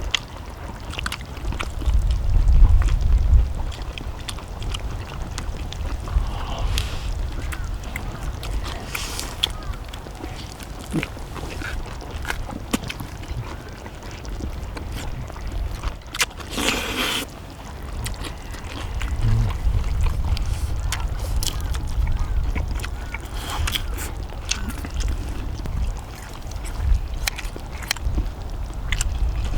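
People eating: scattered clicks of chopsticks and spoons against dishes amid chewing, with a brief louder scrape or clatter about 17 seconds in. A low wind rumble on the microphone rises and falls underneath.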